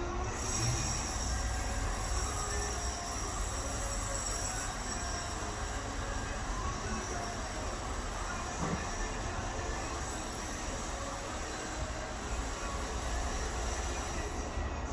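Steady low background rumble with faint high-pitched whining tones above it.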